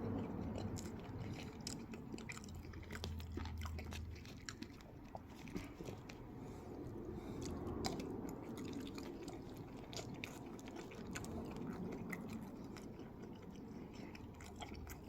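A person chewing and biting crispy chicken wings, with many small crunches and mouth clicks scattered throughout.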